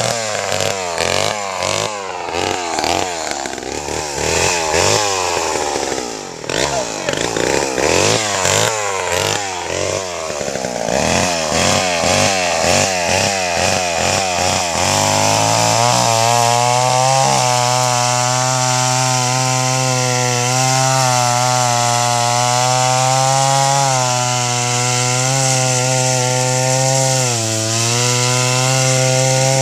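Two-stroke chainsaw running. For the first half it revs rapidly up and down; from about halfway it holds a steady high speed, dipping briefly near the end.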